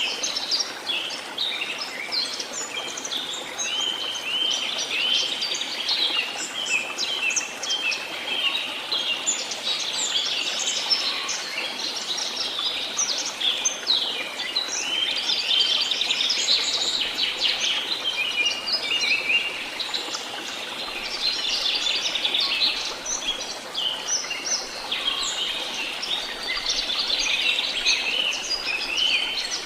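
Many birds calling and singing at once: a dense, continuous chorus of short high chirps and quick pitch glides overlapping one another.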